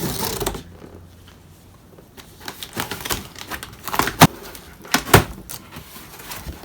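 A cardboard package being handled and opened: rustling and scraping with scattered clicks, and a few sharp taps and knocks about four and five seconds in.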